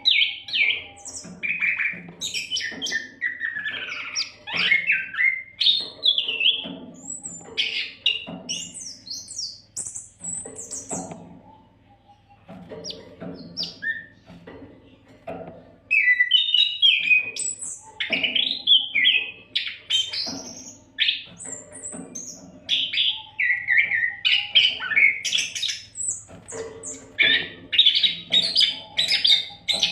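Oriental magpie-robin (kacer) singing nonstop, a rapid run of varied whistles, chirps and harsh notes with a short lull near the middle.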